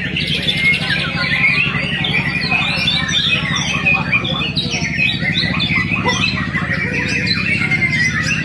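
Many small birds chirping and squawking at once in a dense, continuous chorus, over a steady low hum.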